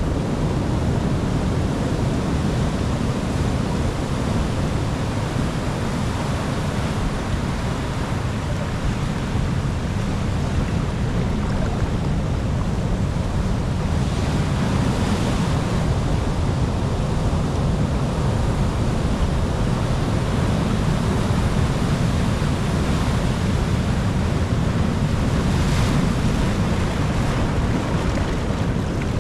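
Ocean waves breaking on a shore, a continuous low wash of surf that swells slightly about halfway through and again near the end.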